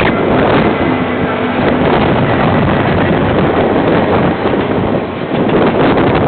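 KiwiRail train passing close by, a loud steady rumble with wind buffeting the microphone.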